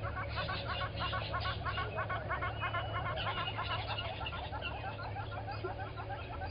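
Morning bird chorus: many birds calling at once in a dense run of rapid, repeated chattering notes, over a steady low hum.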